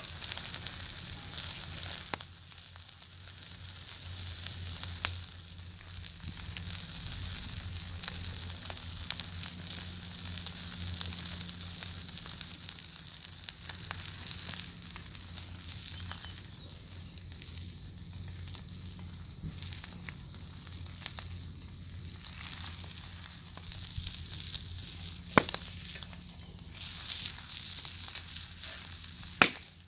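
Bacon sizzling in a pan over a crackling fire: a steady frying hiss with scattered sharp pops, two strong ones near the end, over a low steady rumble.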